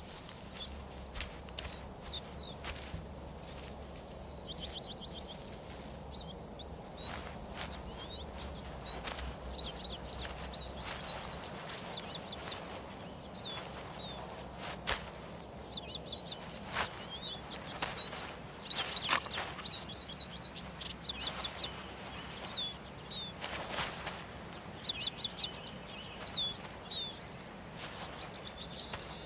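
Small songbirds chirping and trilling over and over, with sharp knocks and clicks scattered among the calls.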